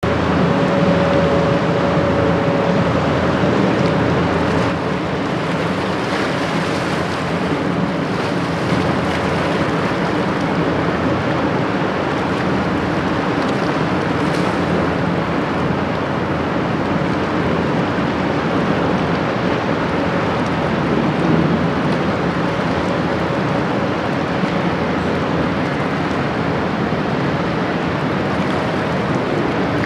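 Inland cargo ship's twin Cummins diesel engines running steadily, a low even drone, mixed with water wash and wind noise.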